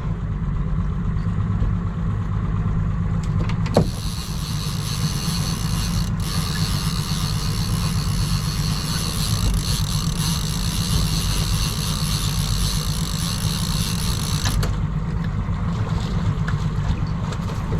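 Boat's outboard motor running steadily with a low hum, a sharp knock about four seconds in, and a hiss high above the hum from about four seconds to near the end.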